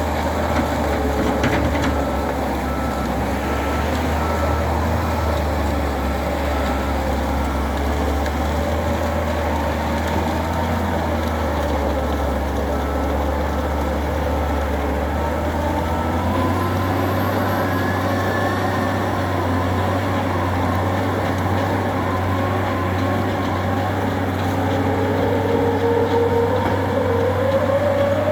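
Tractor shovel loader's engine running steadily under work, its pitch stepping up about halfway through and rising again near the end.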